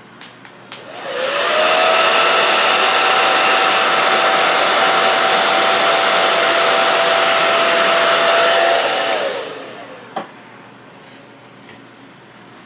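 Hand-held hair dryer switched on, its motor whine rising in pitch to a steady blowing hiss for about eight seconds, then falling away as it is switched off. A sharp click follows about a second later.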